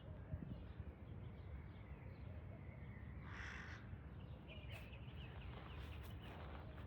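One short, harsh animal call about three seconds in, followed by faint short chirps over a low steady background.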